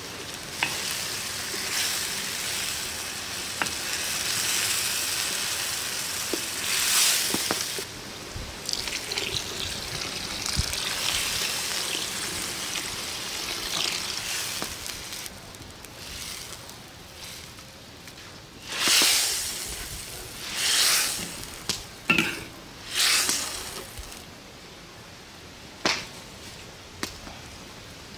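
Onion-and-tomato curry masala frying in a large steel wok over a wood fire, with a steady sizzle and the scrape of a wooden spoon against the pan. About halfway through, liquid is poured in and the sizzle quiets. A few short loud swishes follow.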